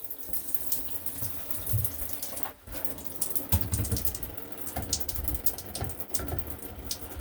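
Shower water running from a Delta shower valve, with scattered small clicks and taps as its hot-water limit is adjusted by hand.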